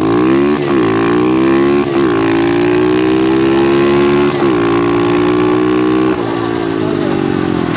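SSR 125 pit bike's single-cylinder four-stroke engine at full throttle from a standing start, its pitch climbing and dropping back with three quick upshifts, then the throttle closing near the end.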